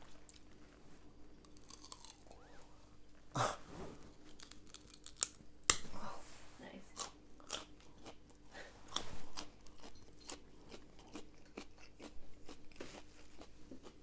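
A person biting and chewing a raw carrot: a run of crisp crunches, the loudest about three and a half and nearly six seconds in.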